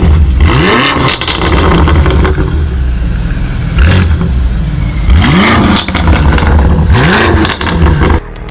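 Loud motor vehicle accelerating hard, its pitch climbing in several rising sweeps, about three in all, before the sound drops off sharply near the end.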